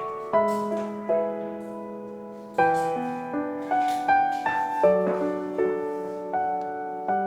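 Background music: a slow, gentle piano melody, notes and chords struck about once a second and left to ring out.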